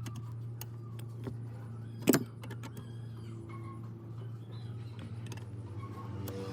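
Electric motor running with a steady low hum. Scattered light clicks and a single loud metallic clank sound about two seconds in.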